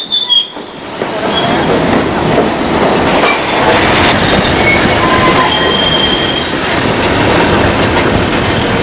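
White Pass & Yukon Route narrow-gauge passenger train running on the track, a steady rumble and clatter of the cars. Brief high-pitched wheel squeals come through several times, the longest about six seconds in.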